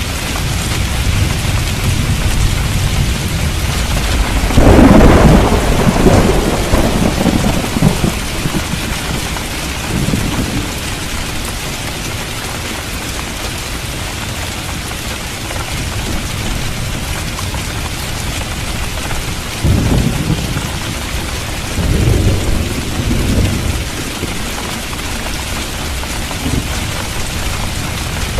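Steady heavy rain with rolling thunder: a loud peal about five seconds in that rumbles for a few seconds, and lower rumbles later.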